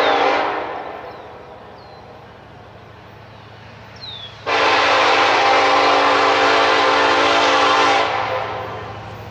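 Locomotive air horn: a blast ends about half a second in, and after a pause a long blast of about three and a half seconds sounds and cuts off. A steady low rumble of the train runs underneath.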